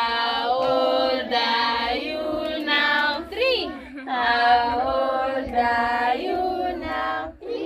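Several voices singing together in held notes, with a swooping rise and fall in pitch about halfway through.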